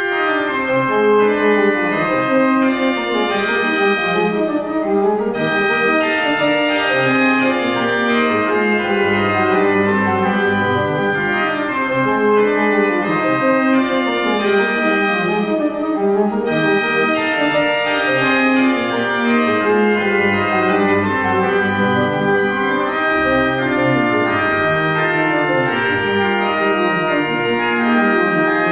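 Organ music: sustained chords with a moving bass line, starting suddenly out of silence.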